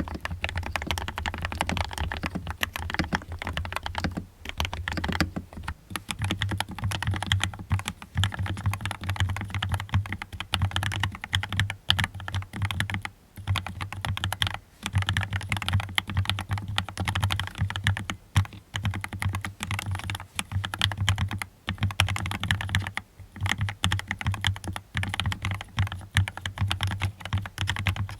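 Fast, continuous typing on a mechanical keyboard: a dense stream of key clacks, broken by a few short pauses.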